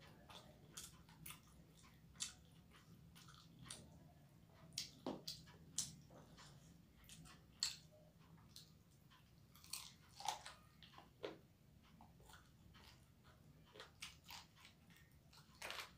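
Close-up eating sounds: chewing and biting on chicken and rice eaten by hand, with irregular sharp mouth clicks.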